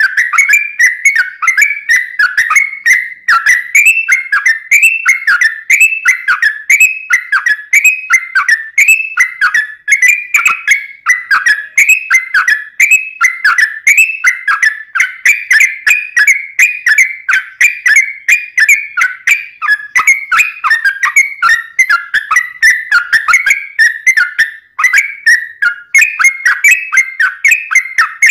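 Yellow-vented bulbul (trucuk) singing a long, unbroken run of quick, bubbly whistled phrases, about two a second without a pause: the continuous 'ropelan' song used as a tutor and lure recording.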